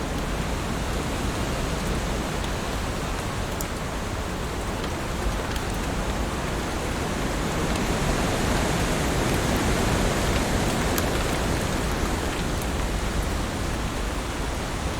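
Heavy rain falling steadily, a dense even hiss with a few sharp drop ticks, swelling slightly about halfway through.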